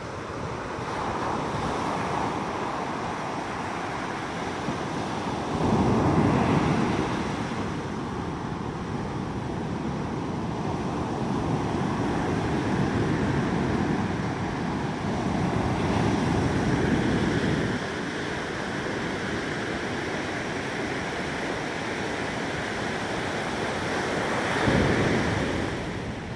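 Ocean surf breaking and washing up on a beach, swelling louder with each wave about six seconds in, through the middle, and again near the end.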